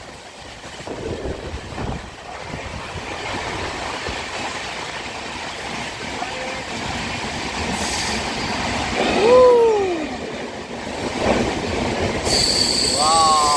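Passenger train running on the track during the ghat climb, a steady rumble of wheels and coaches that grows a little louder. About nine seconds in comes a rising-then-falling squeal, and several more squealing tones come just before the end.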